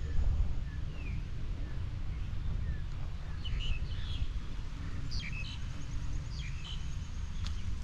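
Birds chirping in short, quick calls, clustered from about halfway through, over a steady low rumble.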